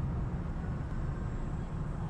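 Girbau HS4012 commercial washing machine running mid-cycle: a steady low rumble with a faint hiss over it.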